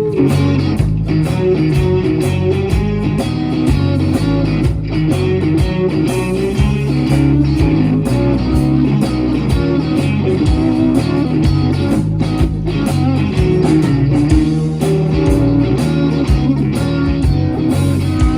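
Live blues-rock band playing an instrumental intro: electric guitar, bass guitar and drums with a steady beat.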